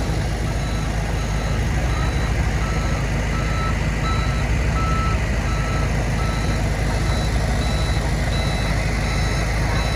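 Heavy diesel engine running steadily under a reversing alarm, which sounds a train of short, evenly repeated beeps.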